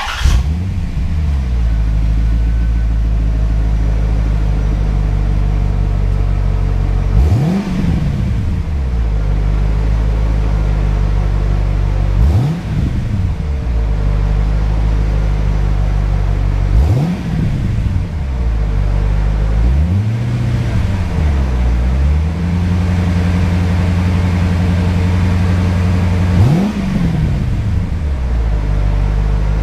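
A 1994 C4 Corvette's V8 firing up and settling into a steady idle through its exhaust, blipped several times with short throttle revs that rise and fall back to idle.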